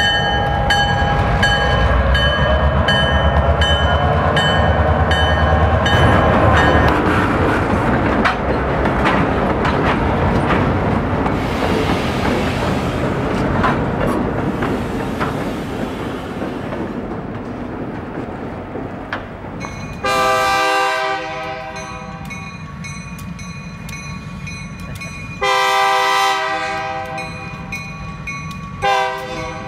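Diesel locomotives rumbling past, with steel wheels clicking over the rail joints and a crossing bell ringing at first. In the second part, a switcher locomotive's multi-chime air horn sounds two blasts of about a second and a half each, and a third starts near the end.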